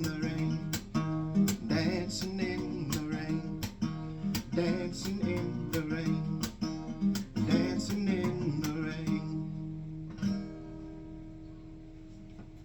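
Acoustic guitar strummed in a steady rhythm, finishing on a last chord about ten seconds in that rings on and fades away.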